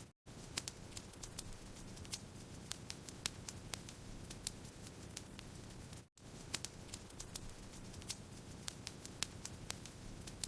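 Wood fire crackling in a fireplace: frequent, irregular sharp pops over a steady low rumble of burning, cut by two brief drops to silence, just after the start and about six seconds in.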